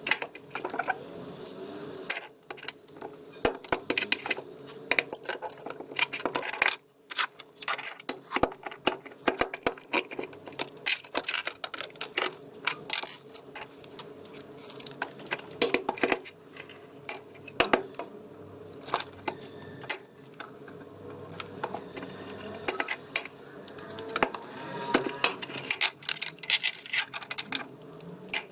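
Small plastic toy pieces clicking and clattering as miniature doll food and dishes are handled and packed into a box. The taps come in irregular rapid runs.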